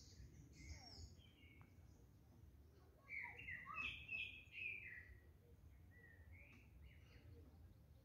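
Wild birds calling and singing in the trees: scattered high chirps at first, a quick run of several notes about three seconds in, then a few more calls, all faint over a low rumble.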